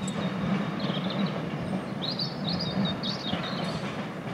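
Electric passenger train running on a steel girder flyover, a steady low drone, with small birds chirping about a second in and again through the second half.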